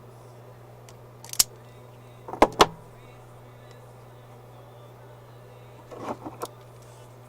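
Sharp clicks and light metallic clatter of small hand tools being handled on a workbench during wire splicing: one click, then two louder ones in quick succession, and a softer cluster near the end, over a steady low hum.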